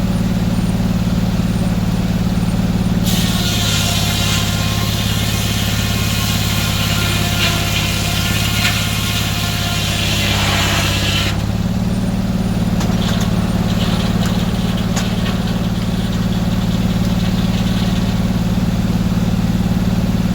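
Sawmill engine running steadily. From about three seconds in until about eleven seconds a loud cutting noise is heard as the saw goes through a hardwood log, and the engine note drops slightly under the load of the cut.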